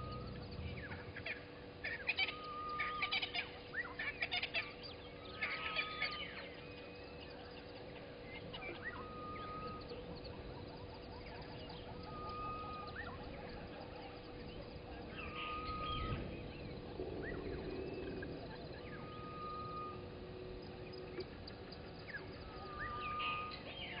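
Dawn bird chorus. A short, level whistled note repeats every few seconds, and louder clusters of rapid chattering calls come a couple of seconds in, again about two-thirds of the way through, and near the end.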